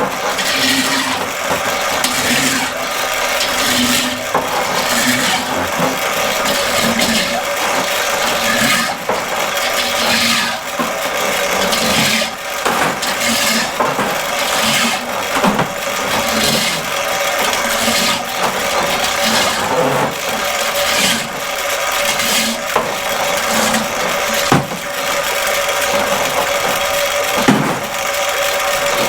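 Electric drain snake running, its motor humming steadily while the spinning cable rattles, knocks and scrapes as it works through a clogged floor drain.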